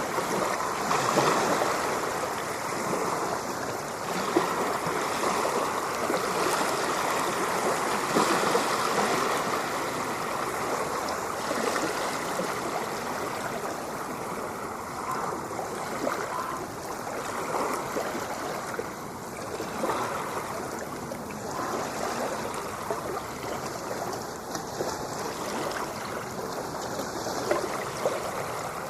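Ocean surf recording: continuous rushing and washing of water, a little fuller in the first several seconds and slightly calmer after.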